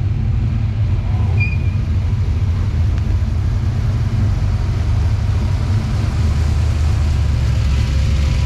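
Car engines giving a steady low rumble as cars drive in at a car meet.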